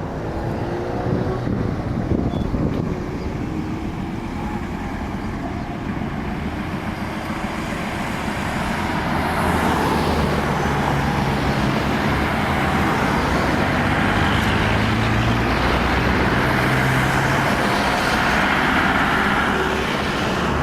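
Street traffic: a motor vehicle's engine runs close by over steady road noise, and grows louder about halfway through.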